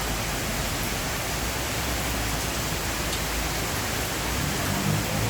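Heavy rain falling, a steady even hiss. Near the end a low engine hum from a passing vehicle comes in.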